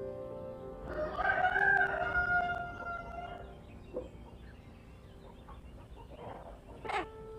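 A rooster crowing once, starting about a second in and lasting about two and a half seconds, over soft background music.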